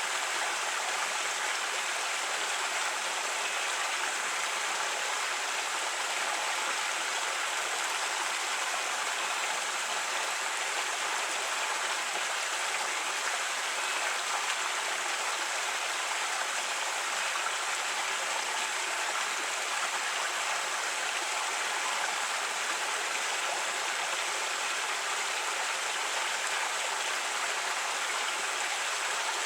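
A creek running over rocks: a steady, unbroken rush of flowing water.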